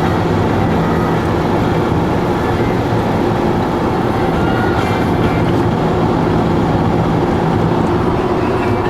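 Steady road and engine noise of a car in motion, heard from inside the cabin: an even rumble with a constant low drone.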